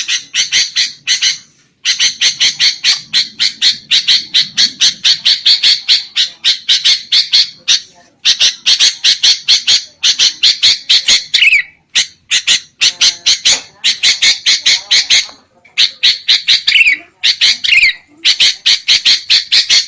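Sooty-headed bulbuls (kutilang) chattering in rapid, harsh, agitated calls, several a second, in long bouts broken by short pauses. This is the noisy 'ribut' chatter played as a lure call to draw wild bulbuls.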